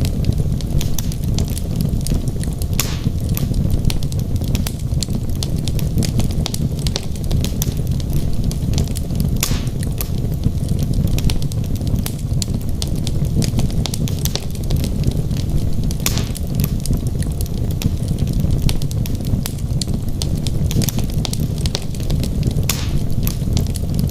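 Wood logs burning in a fireplace: a steady low rush of flame with frequent small crackles and pops, and a few sharper pops now and then.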